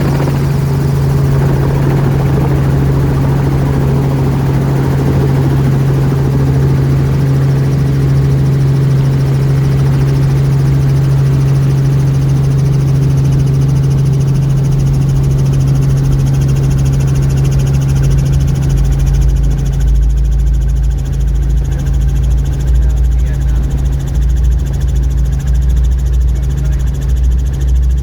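Robinson R44 helicopter running, a loud steady engine-and-rotor drone with a strong low hum. About two-thirds of the way through a deeper rumble grows stronger while the hiss above it fades.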